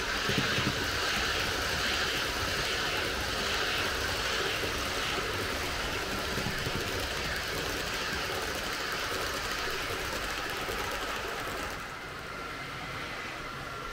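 H0-scale model trains running on the layout: a steady rolling rumble of wheels on track with motor whir. About twelve seconds in it gets quieter, and a thin steady whine comes in.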